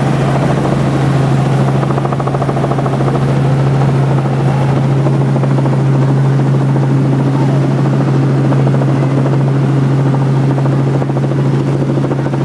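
Helicopter in flight heard from on board: engine and rotor noise running steadily, with a strong constant low hum.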